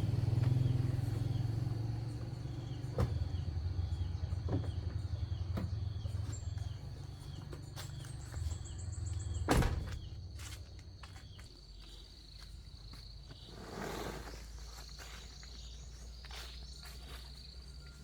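Vehicle engine running with a low rumble that fades away over the first ten seconds or so. A steady high-pitched chirping runs throughout, with a few knocks and one loud sharp knock about halfway through.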